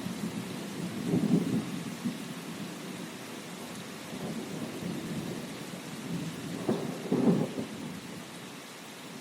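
Steady rain hissing, with rolling thunder rumbling twice: about a second in and again late on, the second roll the longer.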